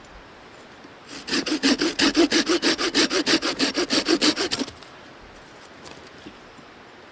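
Hand saw cutting wood in quick, even back-and-forth strokes, starting about a second in and stopping after about three and a half seconds.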